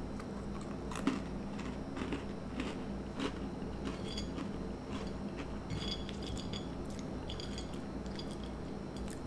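Close-up chewing and crunching of Teddy Grahams, small bear-shaped graham cracker snacks, with scattered short crunches. Light clicks as fingers pick through the cookies on a china plate.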